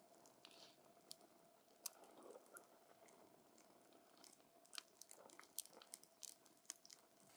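Wood fire crackling quietly, burning wood giving off irregular sharp pops and snaps over a low steady hiss, with a cluster of louder pops in the second half.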